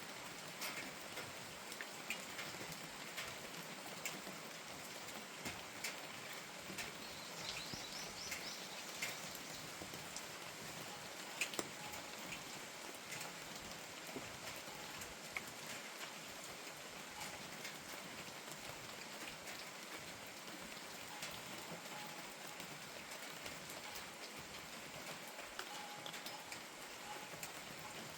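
Steady rain falling, with many individual drops tapping sharply close by over an even hiss.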